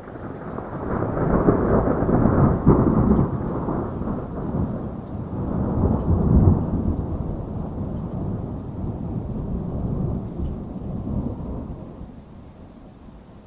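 A long roll of thunder during a rainstorm. The deep rumble builds over the first couple of seconds, swells again about six seconds in, then fades away near the end, over steady rain.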